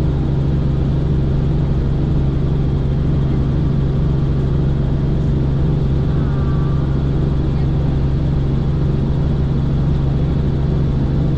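Helicopter in flight: loud, steady engine and rotor noise with a strong low hum that holds unchanged throughout.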